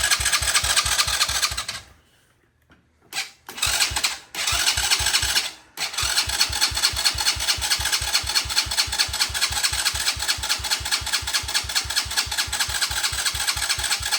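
Electric starter cranking a small engine that does not catch. Two cranks of about two seconds, a brief bump, then a long steady crank with about five even compression pulses a second.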